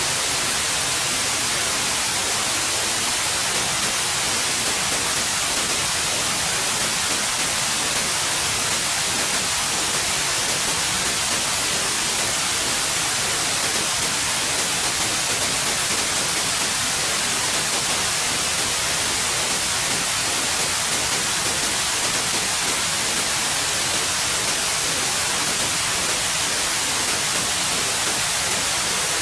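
Steady, continuous white noise, an even hiss that does not change.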